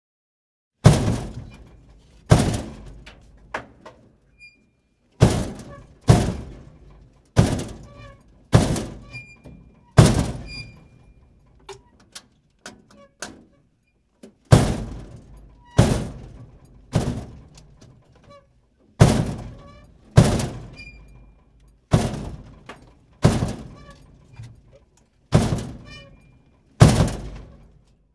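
A series of loud, heavy thuds, about sixteen of them spaced roughly one to two seconds apart, each dying away over about a second, with a few smaller knocks in between.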